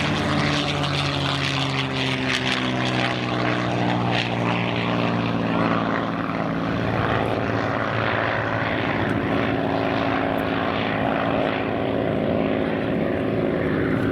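P-51 Mustang's Merlin V-12 engine and propeller running at high power just after takeoff. Its pitch falls gently over the first few seconds as the aircraft moves away, then holds steady.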